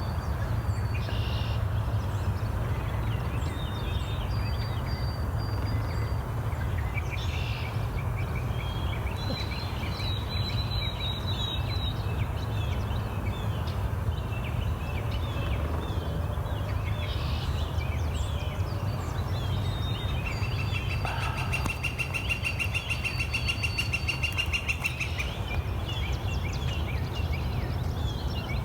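Songbirds chirping and calling, with a long rapid trill lasting several seconds about two-thirds of the way through, over a steady low rumble.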